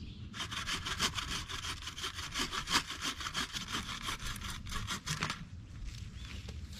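Hand saw cutting through wood in quick, even back-and-forth strokes, stopping about five seconds in.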